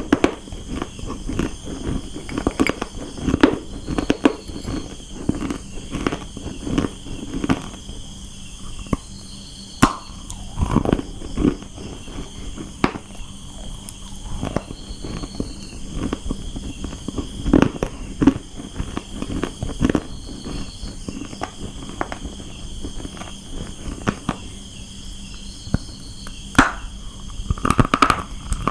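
Close-up crunching and chewing of dry brown clay, with irregular crisp cracks several times a second as the hard chunks break between the teeth.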